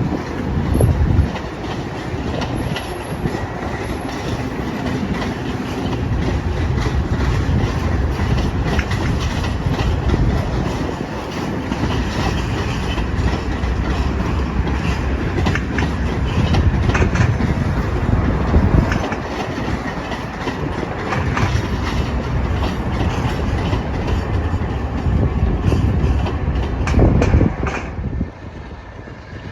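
Amtrak Blue Water passenger train passing close by, a steady heavy rumble with wheels clicking over rail joints; the sound drops away suddenly near the end as the train goes by.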